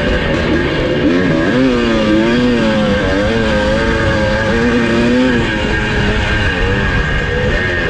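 Two-stroke single-cylinder engine of a 1982 Husqvarna 430 motocross bike working under load, its pitch climbing and dropping again and again as the throttle is opened and shut.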